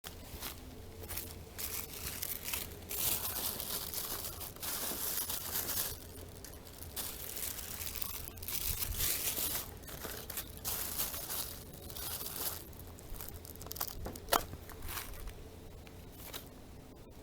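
Branches of a fallen spruce being broken and pulled about by hand: irregular cracking, tearing and rustling of twigs and needles, with one sharp snap about 14 seconds in.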